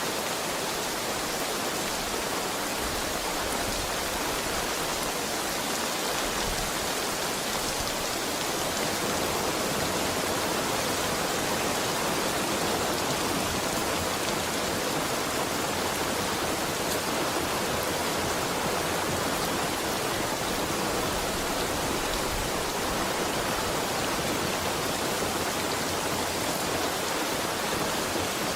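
Heavy rain falling steadily, an even hiss with no thunder or other events.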